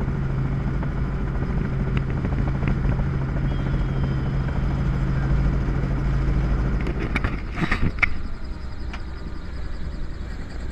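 Helicopter engine and rotor running with a steady hum. The hum's pitched tone drops out about seven seconds in, and a few sharp knocks and clatter follow.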